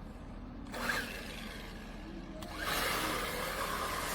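Small RC car's brushless electric motor whining as it is driven in bursts at full throttle, with a short burst about a second in and a longer, louder one from about two and a half seconds in.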